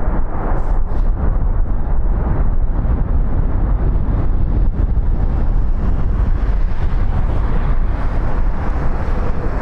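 Jet airliner engines running with a loud, steady rumble, mixed with wind buffeting the microphone.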